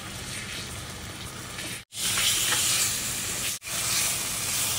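Dabeli masala and date-tamarind chutney sizzling in hot oil in a stainless steel kadhai as they are stirred with a silicone spatula. The sizzle cuts out abruptly twice and is louder after the first break.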